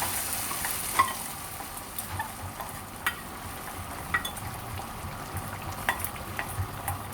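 Hot curry sizzling as fried onions in ghee with mustard seeds and curry leaves are stirred in. A spoon clicks and scrapes against the pot several times.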